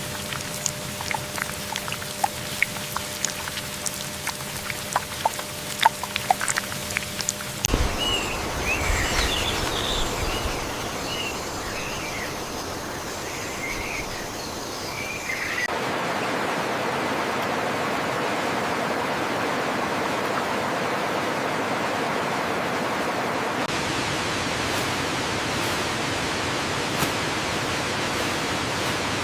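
Rainforest ambience in three cuts: first a crackling, clicking haze with a low steady hum, then birds calling in short rising and falling chirps over a high insect drone, then an even rushing hiss for the second half.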